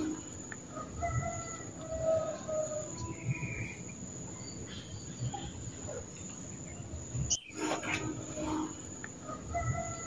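A bird singing short clear whistled phrases, once about a second in and again near the end, over a steady high-pitched drone of insects. A single sharp click about seven and a half seconds in.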